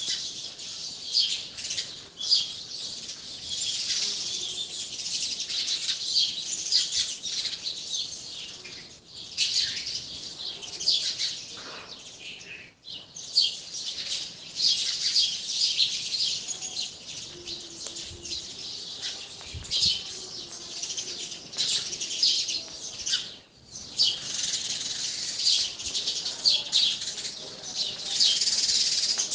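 Sparrows chirping as a flock: a dense, continuous chatter of many short high chirps overlapping, with brief lulls about a third and three quarters of the way through.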